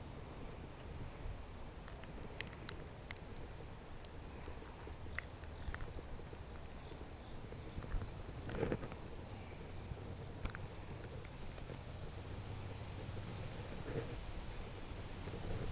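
Riverside ambience: a steady low rush of flowing water, scattered small clicks and ticks, and short bursts of fast, high-pitched insect chirping about every four to five seconds.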